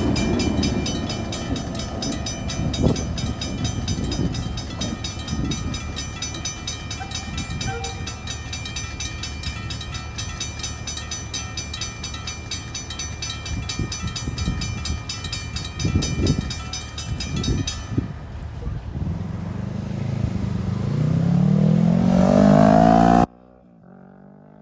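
A train passing close by: a loud, steady rumble and rattle of wheels on rail, swelling near the end and then cutting off suddenly.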